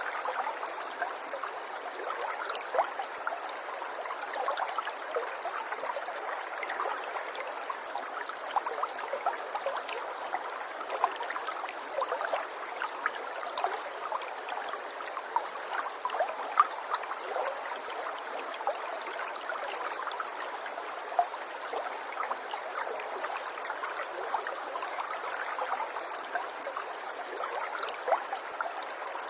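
Water flowing in a stream: a steady rush scattered with many brief small splashes.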